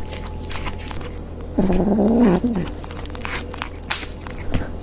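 A cat's drawn-out, wavering call lasting about a second, starting about a second and a half in, among many short clicks.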